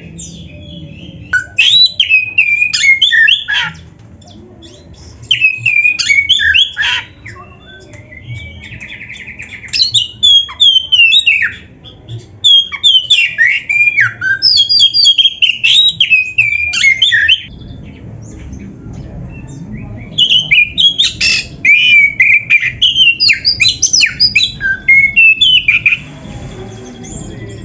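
Oriental magpie-robin (kacer) singing loud, rapid, varied song phrases of chattering notes and whistles. The song comes in five bursts of a few seconds each, with short pauses between them.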